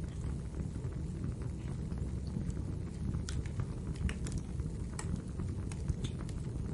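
Wood fire in a fireplace crackling: a steady low rumble of burning with irregular sharp pops and snaps, a few louder ones around the middle.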